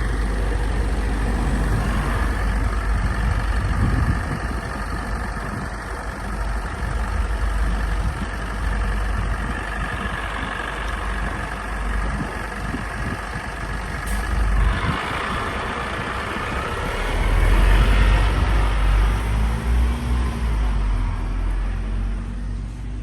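Scania Citywide LE city bus running on its compressed-natural-gas engine, with a brief sharp hiss about 14 seconds in. Soon after, the engine pitch rises and the sound gets louder, peaking a few seconds later.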